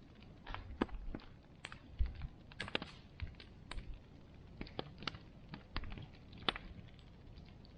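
Bonfire crackling: irregular sharp pops and snaps of burning wood, several a second at uneven spacing, over a low steady rumble of the flames.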